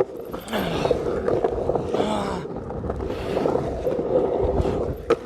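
Skateboard wheels rolling across a ramp with a steady rumbling hum that swells and eases as the board carves, then a sharp clack about five seconds in.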